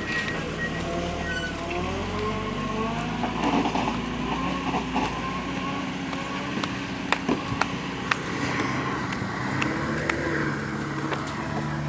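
Truck engine running steadily, its pitch wavering slightly, with a few faint clicks.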